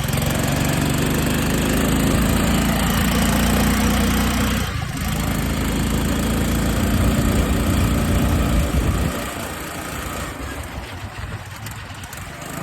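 Racing lawn mower engine running as the mower is driven, with a brief dip about five seconds in. About nine seconds in the engine sound falls away to a much quieter hum.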